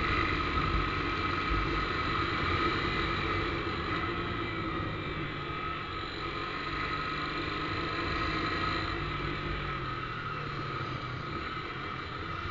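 Motorcycle engine running through its new aftermarket exhaust, a steady drone with a low rumble.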